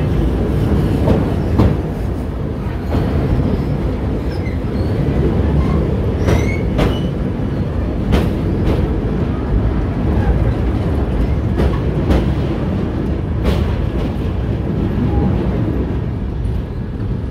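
Passenger train running across a steel girder bridge, heard from the coach's open door: a loud, steady rumble of wheels on rails. A few sharp clacks from wheels passing over rail joints sound at irregular intervals.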